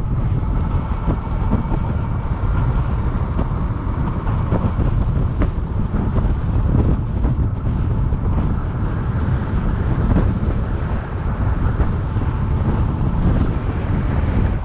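Wind buffeting the microphone while riding an electric bike at speed, a steady gusting rumble mixed with road noise.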